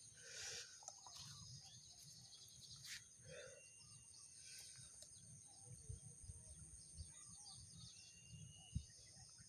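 Quiet paddy-field ambience: a steady high insect drone, with a few faint short bird whistles and a low rumble of wind or handling noise.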